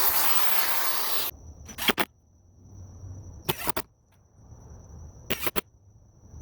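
Caulking gun squeezing out silicone sealant, its trigger clicking in pairs about every two seconds, with a soft rustle of the bead being laid between clicks. A loud hiss fills the first second and stops suddenly.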